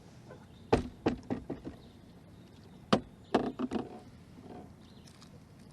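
Hard knocks and thumps against the boat as a landed catfish flops and is handled: a burst of about five quick knocks a second in, then another burst of about five near the middle.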